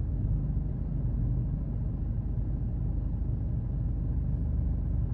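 Semi-truck's diesel engine running steadily, a constant low rumble.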